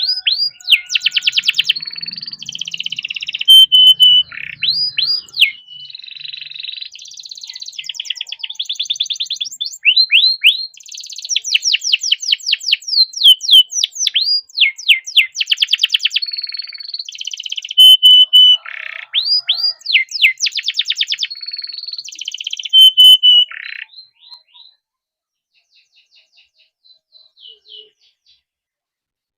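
Domestic canary singing a long song of rapid trills and rolls, with high repeated notes, fast buzzy runs and held whistled tones. The song stops about 24 seconds in, and only a few faint chirps follow.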